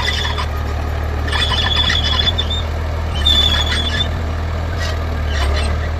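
Heavy diesel engine of a bulldozer running steadily under load, with loud, high metallic squeals coming and going twice, each about a second long, and fainter squeaks near the end.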